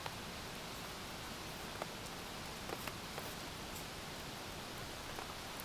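Steady hiss of falling rain, with a few faint scattered ticks of drops landing near the microphone.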